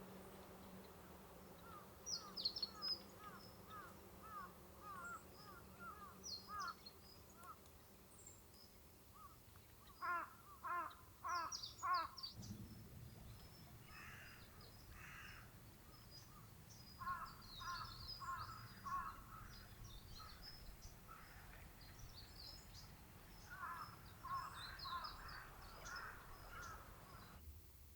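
Crows cawing in clusters of harsh calls, with four loud caws in quick succession about ten seconds in and more bursts later. Small birds give faint, high chirps throughout.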